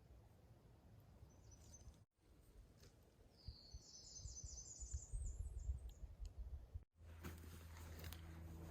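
Faint forest ambience with a low wind rumble; in the middle a songbird sings one short trill of rapid high notes. Near the end a steady low hum comes in with scattered light ticks.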